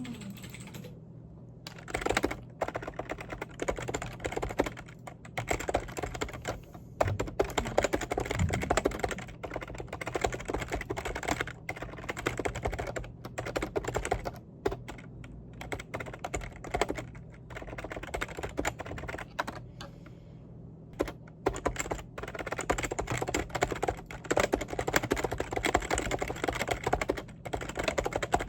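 Fast typing on a computer keyboard, in long runs of key clicks with brief pauses about two-thirds through and near the end, over a steady low hum.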